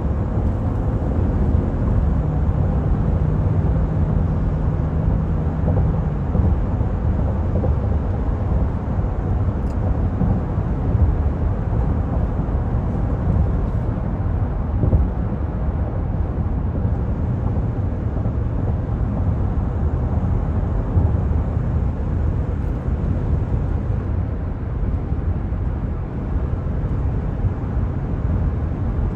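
Steady low rumble of a 2024 Cadillac Escalade being driven, heard from inside the cabin: tyre and road noise, with a low hum from its 6.2-litre V8 standing out for a few seconds near the start.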